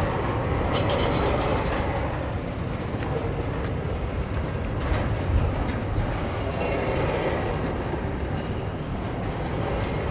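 Freight train wagons of double-stacked containers rolling past, with a steady rumble of steel wheels on rail and a few sharp clicks as wheels cross the rail joints.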